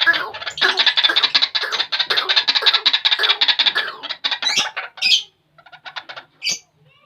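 White-breasted waterhen calling: a fast run of harsh repeated notes, then a few separate rising calls with short gaps after about four seconds.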